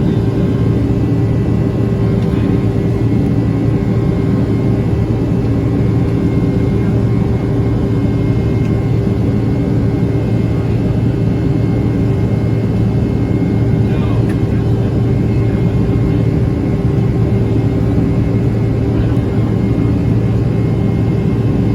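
Boeing 767-300ER cabin noise in flight: steady jet engine and airflow noise with a constant low hum, unchanging throughout.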